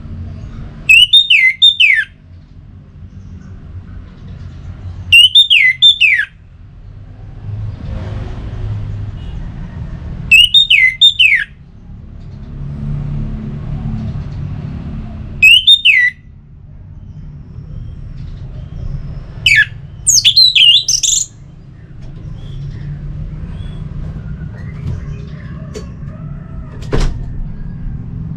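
A bird calling loudly: a short call that falls in pitch, repeated four times about five seconds apart, then a different, longer call near the 20-second mark, over a steady low rumble.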